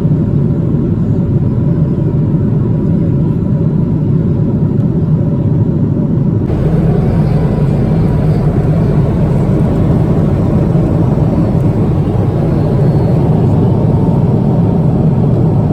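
Steady rumble of jet engines and airflow heard inside the cabin of a Boeing 777-200 airliner. It turns abruptly a little hissier about six and a half seconds in.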